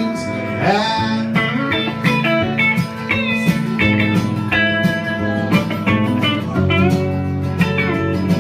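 Live band playing an instrumental guitar break after a sung chorus line ends: a lead guitar picks a melody with sliding, gliding notes over a steady low accompaniment.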